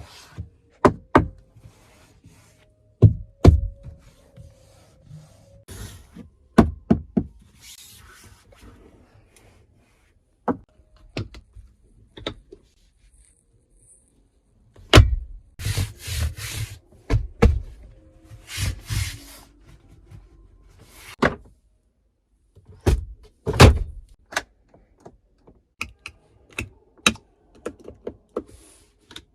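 Irregular clicks, knocks and thunks from car doors, latches and fittings being opened, closed and handled. There is a cluster of short rustling bursts about halfway through.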